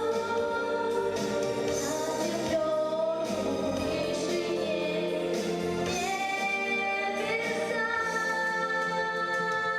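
Music with singing: held, sustained notes over instrumental accompaniment, steady throughout.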